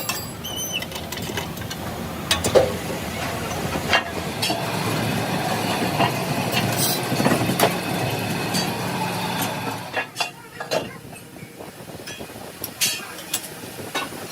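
Metal workshop noise: a machine running steadily for about ten seconds and then stopping, with scattered sharp metal clinks and knocks throughout.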